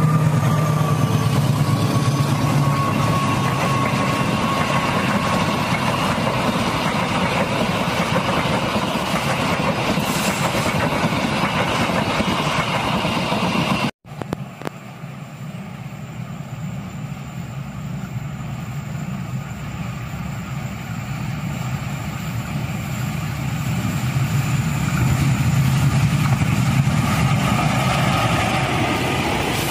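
Passenger train coaches rolling past on a curved track, wheels rumbling on the rails with a thin wheel squeal that falls slightly and fades over the first few seconds. After an abrupt cut about halfway, a second train hauled by a diesel-electric locomotive approaches, growing steadily louder until the locomotive's engine and wheels pass close near the end.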